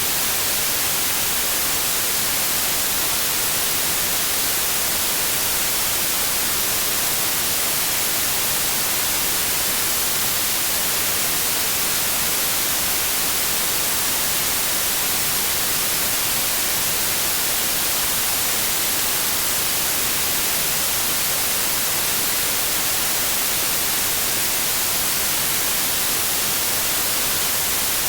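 Digitally generated white noise with a flat spectrum: a steady, unbroken hiss, brightest in the high frequencies, at a constant level.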